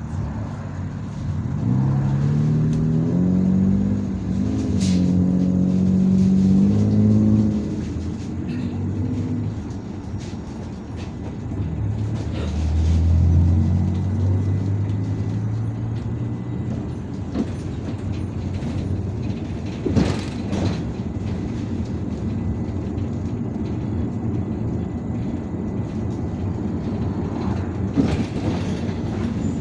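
IVECO Urbanway 18M articulated city bus heard from inside while under way. The engine rises in pitch as the bus pulls away, drops at a gear change about four seconds in, and climbs again. After that comes a deep low hum, then steady running with road noise and a few sharp knocks and rattles.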